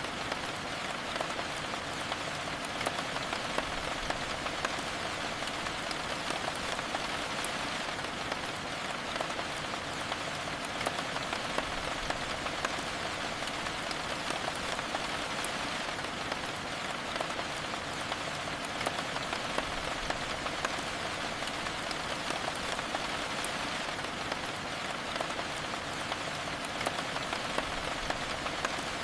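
Steady rain falling, a continuous hiss with many sharp individual drop ticks scattered through it.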